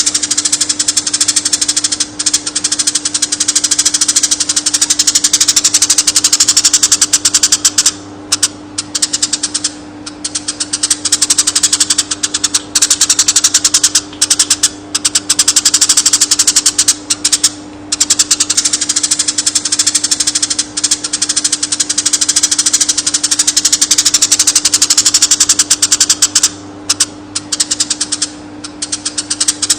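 Eurasian tree sparrow singing long rolling trills: very rapid chattering notes in long runs broken by short pauses, with a steady low hum beneath.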